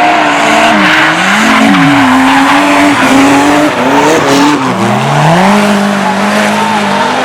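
Drift car's engine revving hard, its pitch dropping and climbing again several times as the throttle is lifted and reapplied, over tyres squealing as the car slides.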